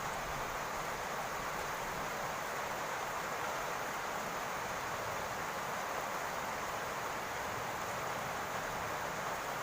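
Steady rain falling on a roof, an even hiss without a break.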